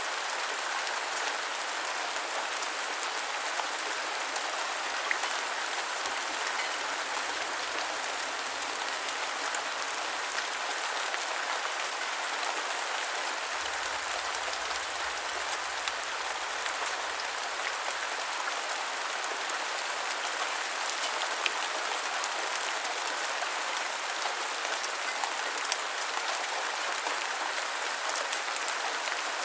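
Steady rain falling, a constant hiss with scattered drops ticking.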